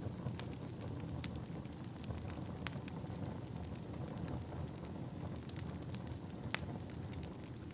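Wood fire burning in a fireplace: a steady low rush of flames with frequent sharp crackles and pops of burning wood, a few louder snaps among them, the loudest late on.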